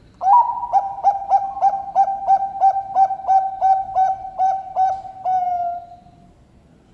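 Bangkok-type zebra dove (perkutut) cooing: an opening note, then a rapid string of about fourteen short rolling notes, about three a second, ending in a longer drawn-out note that fades away.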